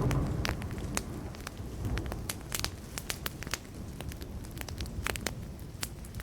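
Wood fire crackling, with frequent sharp pops and snaps. A low rumble of distant thunder fades over the first second or so and swells briefly again about two seconds in.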